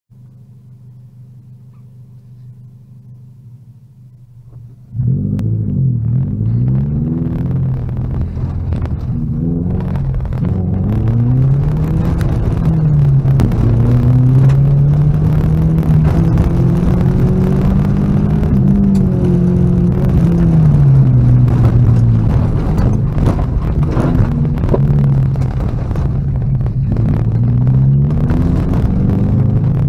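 Car engine idling, heard from inside the cabin, then launching hard about five seconds in. It then revs up and down repeatedly as it is driven fast over a dirt and gravel course, with loose stones ticking against the car.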